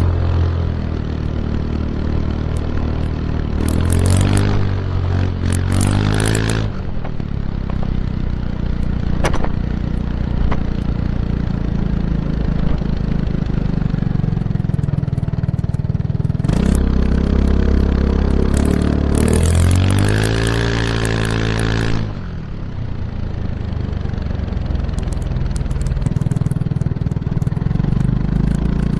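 Kymco X-Town scooter's single-cylinder engine through an Arrow Urban exhaust with its dB killer fitted, heard close to the exhaust while riding. The note rises under acceleration about four seconds in and again around seventeen seconds in, drops sharply when the throttle closes a little after twenty seconds, and holds steady while cruising in between.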